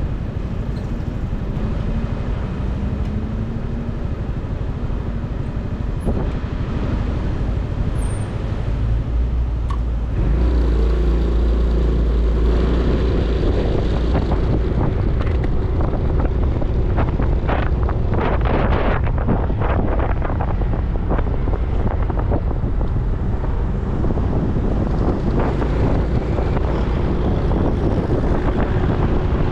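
Motorcycle engine running under way, with wind rush over the microphone and road noise; about ten seconds in, the engine and wind get louder and stay so.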